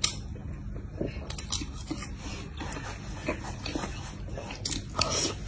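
Close-miked chewing of a shrimp-and-chicken burger: wet mouth sounds and small crunchy clicks, with a louder smacking crunch about five seconds in.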